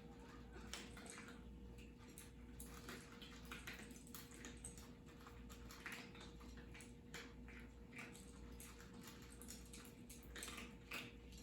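Cats eating: faint, irregular small clicks and smacks of chewing, over a faint steady hum.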